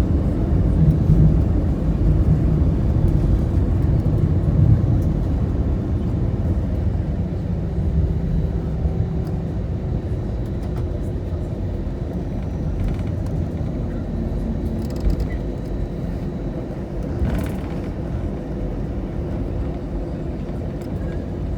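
Cabin noise inside an Airbus A320 taxiing after landing: a steady low rumble of engines and rolling wheels that eases off slightly, with a faint click about three-quarters of the way through.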